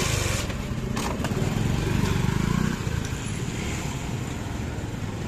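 Express train hauled by a WAG-9 electric locomotive passing close over a level crossing: a loud, continuous rumble and rush of wheels on rail that starts abruptly.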